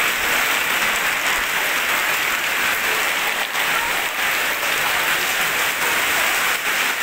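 Heavy rain falling steadily on a fabric canopy roof, a dense, even hiss.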